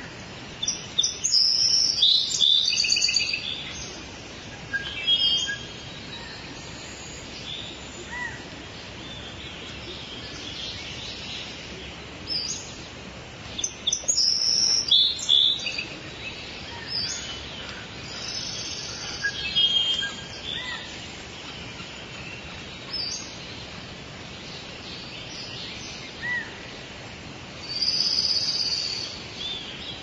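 Birds chirping and calling in short, high-pitched flurries every few seconds over a steady background hiss.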